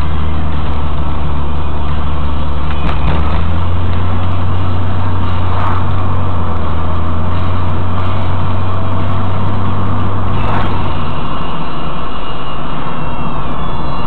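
Cabin sound of a Nissan 300ZX twin-turbo on the move: a steady low engine drone from its twin-turbo 3.0-litre V6 over road and tyre noise. The low drone eases off about eleven seconds in.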